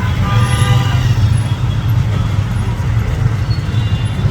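Steady low rumble of a running motor vehicle engine or road traffic.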